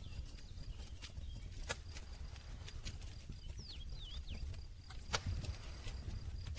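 Campfire burning with a steady low rumble and scattered sharp crackles and pops, the loudest pop a little after five seconds in. A few short high chirps come about halfway through.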